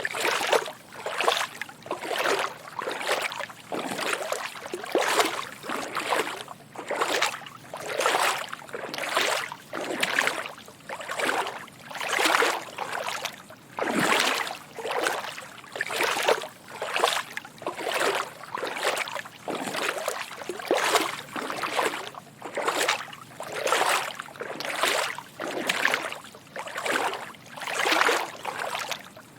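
Footsteps wading through shallow water: soft sloshing splashes at a steady walking pace, about one step a second.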